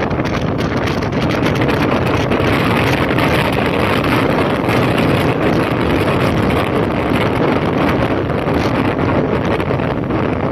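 Honda CB1300's inline-four engine running at a steady riding speed, mixed with heavy wind buffeting on the microphone.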